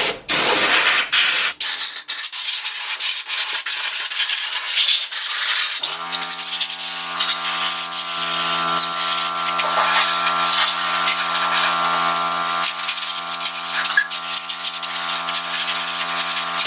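Loud, steady spraying hiss with scattered clicks. About six seconds in, a sustained chord of several steady tones comes in under it.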